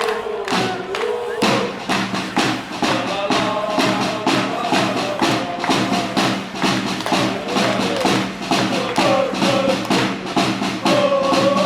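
Football fans singing a chant together to a steady beat on a drum.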